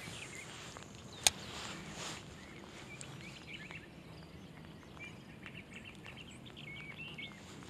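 Many short, high bird chirps over a steady faint background hiss, with one sharp click a little over a second in.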